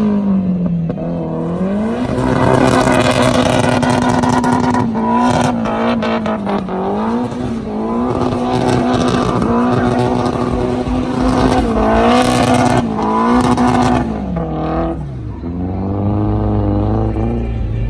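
A car engine revving hard: held high, dipping and climbing back several times over a loud rushing noise. About fifteen seconds in it drops to a lower, steadier running note.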